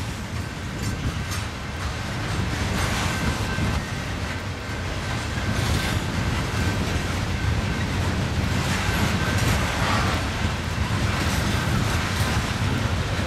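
A BNSF freight train rolling past: a steady, heavy low rumble of steel wheels on rail, with scattered clicks and a faint high squeal in places.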